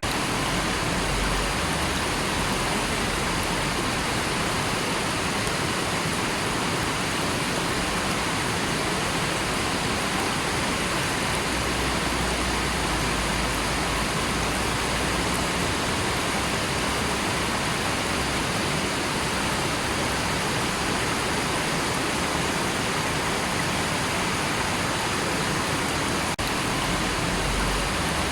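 River water running: a steady, even rush of flowing water with no change in level.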